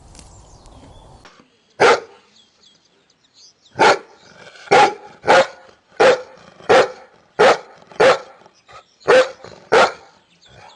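A dog barking: one bark, then after a pause a steady run of nine more barks, about three every two seconds.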